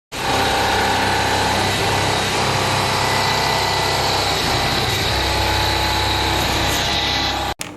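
CNC machine tool running under cut: a steady high whine with several held tones over a bed of cutting noise, cut off abruptly near the end.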